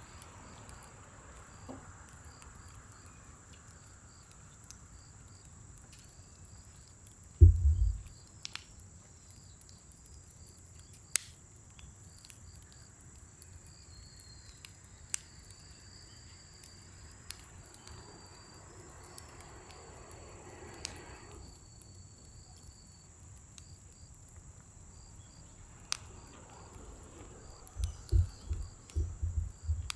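Insects chirping steadily, with a few sharp pops from a scrap-wood fire burning in a fire pit. Heavy low thumps come about seven seconds in and again in a cluster near the end.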